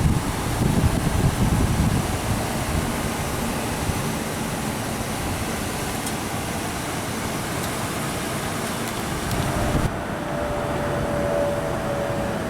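Truck engine running with a steady, noisy rumble and some wind on the microphone; near the end a steady whine comes in.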